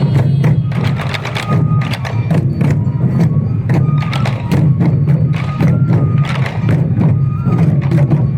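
Sansa odori festival music: many taiko drums struck in a dense, driving rhythm, with short held notes from bamboo flutes above it.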